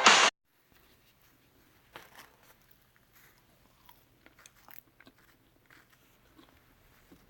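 Music cuts off just after the start, then faint, irregular crunching and chewing of someone eating.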